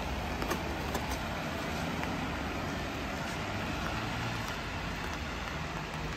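Steady rain hiss on a city street with road traffic noise, and a few light ticks about a second in.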